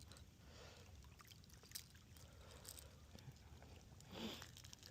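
Near silence: faint outdoor background with a few small clicks and a soft brief sound about four seconds in.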